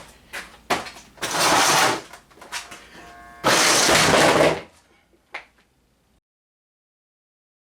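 Scattered knocks and clicks with two loud bursts of harsh noise, each about a second long, the second following a brief tone, then sudden dead silence.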